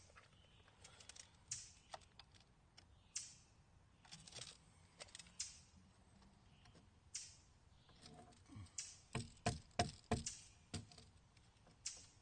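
Scattered light clicks and rustles of wooden step boards and screws being handled. About nine seconds in comes a quick run of half a dozen sharper knocks on wood.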